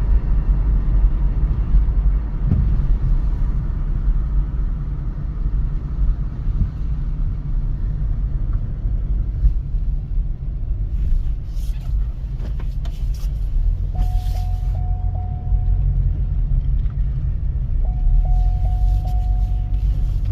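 Chevy Cobalt SS driving, with a steady low engine and road rumble. A steady electronic tone sounds twice in the second half, about two seconds each time.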